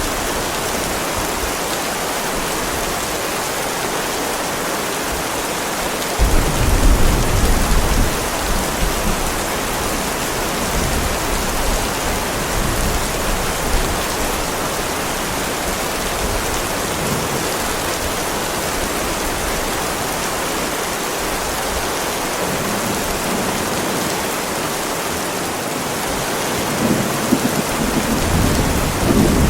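Heavy rain falling steadily on a driveway, with a low rumble of thunder about six seconds in and another building near the end.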